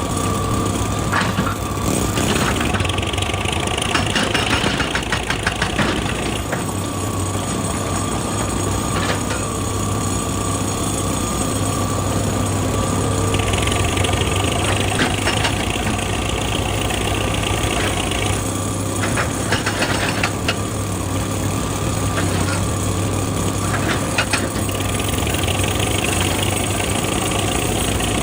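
Excavator diesel engine running steadily, with a higher hiss that comes and goes three times and scattered sharp knocks, including a quick run of them a few seconds in, as it works rock.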